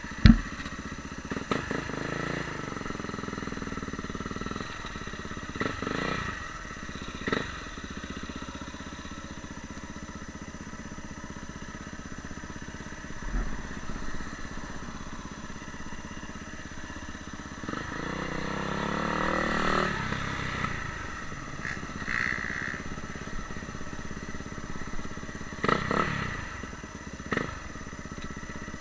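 Motocross bike engine running, with its pitch rising as it revs up about two-thirds of the way through. A sharp knock just after the start is the loudest sound, and a few smaller knocks and clatters come through along the way.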